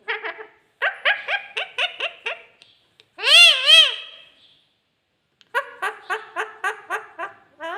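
Pet parrot vocalizing in a high, clear voice: a run of quick chattering syllables, a longer wavering call in the middle, then another quick run of syllables, laugh-like in places.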